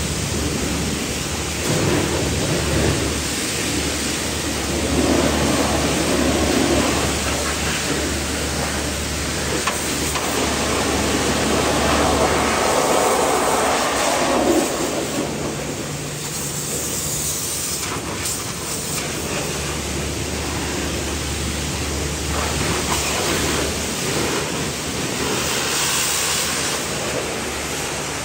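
Pressure washer spraying water against a car's body in a steady hiss, with a low steady hum that stops about halfway through and comes back later.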